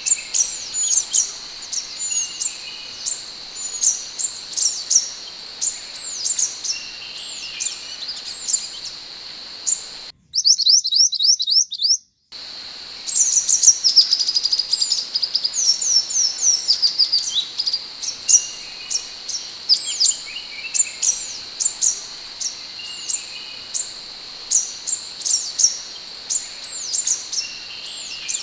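Scarlet minivet (sepah hutan) singing: a quick run of short, sharp, downward-slurred whistled notes, repeated over and over above a steady high background tone. About ten seconds in, a brief, faster and higher trill cuts in for about two seconds, with the background dropping out.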